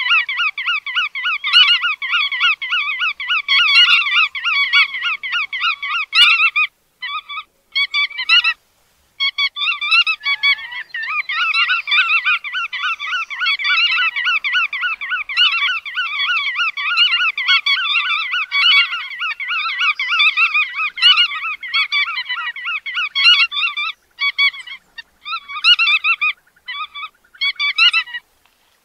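Bar-tailed godwits calling: a rapid, continuous run of nasal calls, several a second, with a few short breaks.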